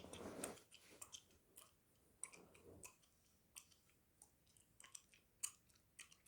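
Gum being chewed close to the microphone: faint, irregular wet clicks and smacks of the mouth.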